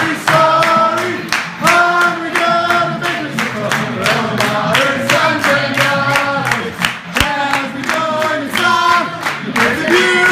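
A crowd of fans singing a fight song together in unison, clapping steadily on the beat.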